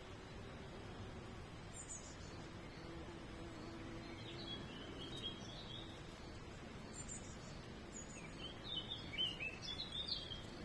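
Small songbirds chirping and twittering over a steady outdoor background hiss, with a few short high chirps and a busier run of twittering near the end.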